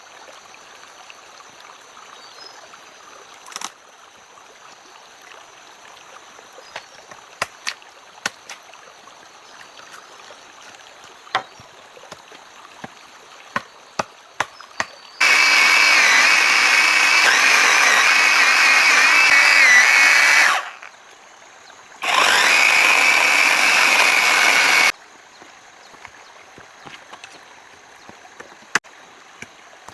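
A power tool's motor runs in two bursts, about five seconds and then about three seconds, with a steady whine that wavers slightly in pitch. Scattered light clicks and knocks come before and after.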